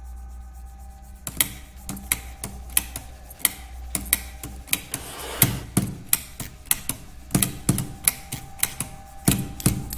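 Percussive rhythm made from bag-making workshop sounds: sharp clicks and taps start about a second in, coming roughly twice a second and growing denser. Heavier low thuds join about halfway through.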